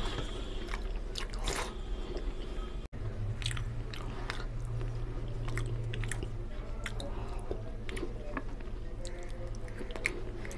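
Close-miked chewing of mutton and rice, with many small wet mouth clicks and smacks. The sound drops out briefly about three seconds in, and a low hum runs for a few seconds after it.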